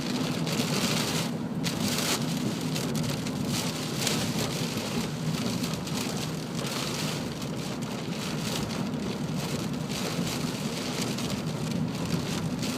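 Heavy rain bucketing down: a steady, dense hiss of drops that does not let up.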